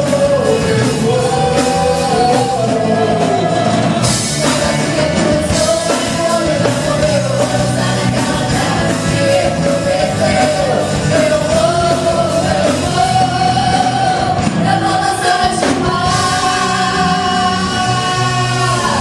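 Portuguese-language Christian worship song playing: a lead voice singing over a full rock band, with the band getting fuller about four seconds in and again near the end.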